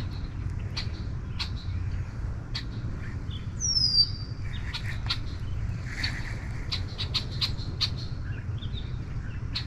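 Wild birds calling: one clear downward-slurred whistle about four seconds in, among scattered sharp chips and ticks.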